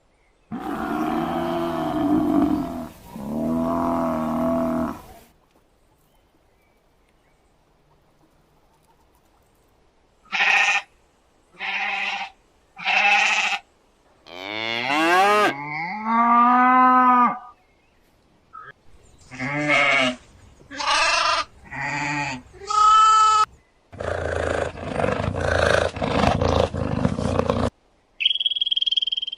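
A series of animal calls: two long calls in the first five seconds, then after a pause a run of short pitched calls, some gliding up and down in pitch, followed by a longer rough call and a brief high tone near the end.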